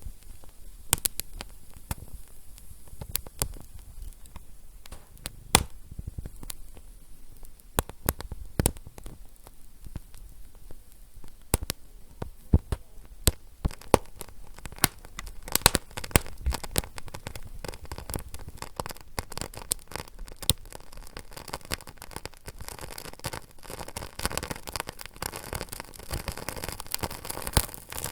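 A fire crackling: irregular sharp pops and snaps over a low hiss, the hiss growing fuller near the end.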